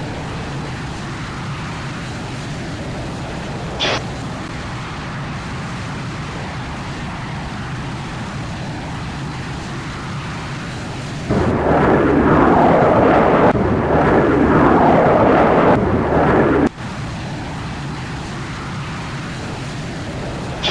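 Jet engine noise, a steady deep rumbling roar; about eleven seconds in it jumps to a much louder roar for about five seconds, then drops back abruptly.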